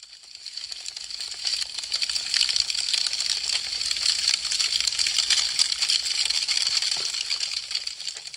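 Wood fire crackling: a dense stream of small, fast pops and snaps over a soft hiss. It swells up over the first couple of seconds and fades away near the end.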